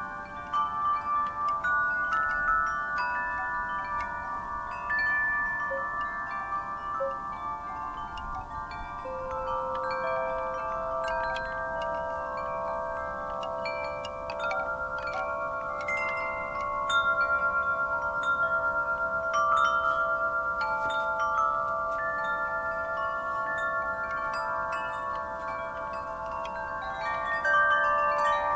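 Metal wind chimes stirred by a breeze, their tubes struck irregularly and ringing on in overlapping, long-sustained tones.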